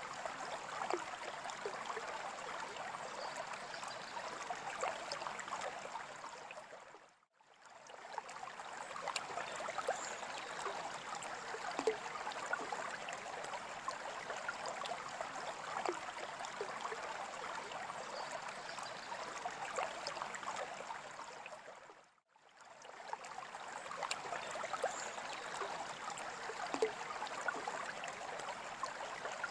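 Steady trickling, gurgling water with small scattered bubbling pops. It fades briefly to silence twice as the same stretch of water sound repeats.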